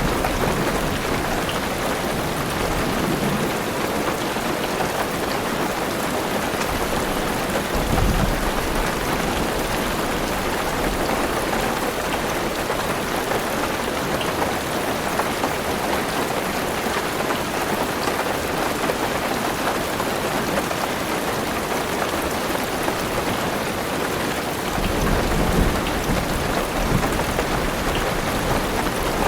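Heavy rain drumming steadily on a car roof and windows. A short low rumble of thunder comes about eight seconds in, and a longer rolling rumble builds near the end.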